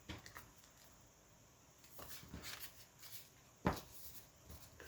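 Paper and card being handled on a work surface: faint scattered rustles and light taps, with one sharp knock about three-quarters of the way through.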